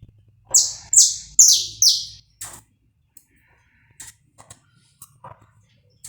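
Saffron finch singing: a run of four loud, quick notes starting about half a second in, each sliding down in pitch, then a few faint short chips.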